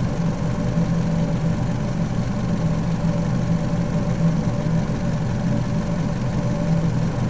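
Fiat 500 engine idling steadily with the bonnet up, being run warm to bleed trapped air out of its cooling system.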